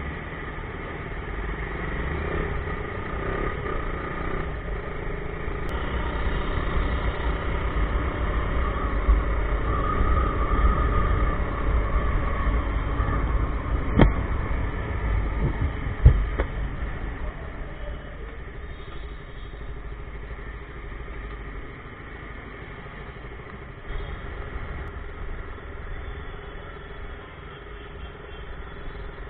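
Motorcycle running through city traffic, with engine and road noise swelling through the middle and easing off later. Two sharp knocks about two seconds apart come midway through.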